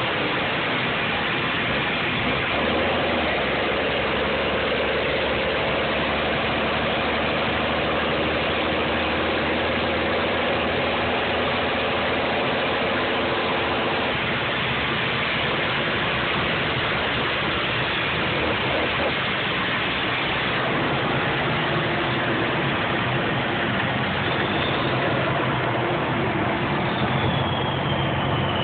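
M35A2 deuce-and-a-half truck's turbocharged multifuel inline-six diesel running steadily, its note shifting about halfway through. A high turbo whistle sits over it and falls in pitch near the end.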